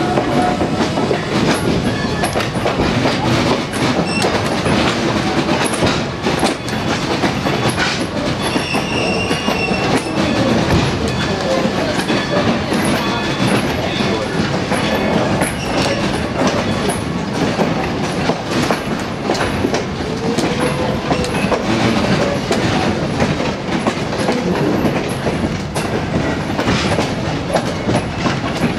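Vintage railroad passenger coach rolling along behind a coal-burning steam locomotive, heard aboard: a steady rumble with the clickety-clack of wheels over rail joints, and a faint high wheel squeal about nine seconds in.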